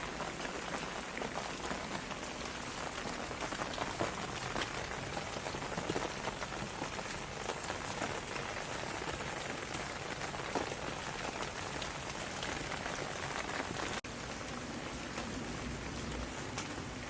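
Steady rain falling, with many individual drops pattering on a surface. About 14 seconds in, it cuts out for an instant and resumes with a slightly deeper texture.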